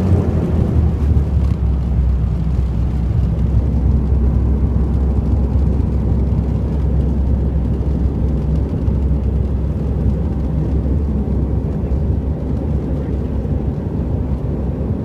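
Airliner landing: a steady low rumble that eases off slightly near the end.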